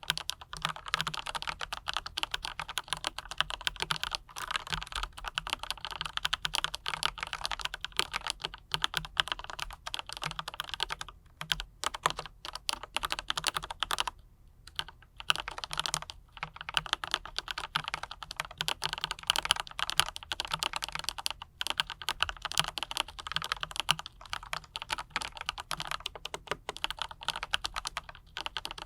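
Typing on a mechanical keyboard fitted with Autumn Rain switches and PBT double-shot keycaps: a fast, steady run of key clacks with a brief pause about halfway through.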